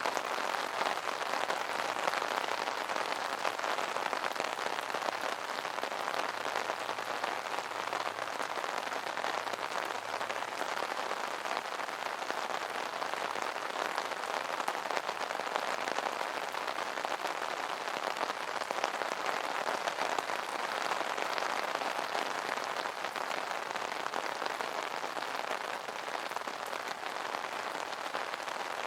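Steady rain pattering on an umbrella canopy: a dense, even spread of small drop impacts on taut fabric.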